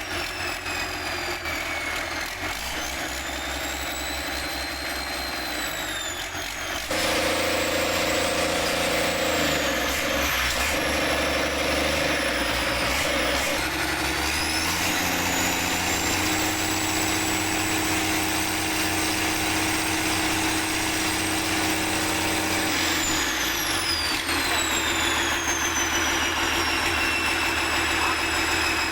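Diesel engine running, its speed rising and falling, with a sudden step up in loudness about seven seconds in.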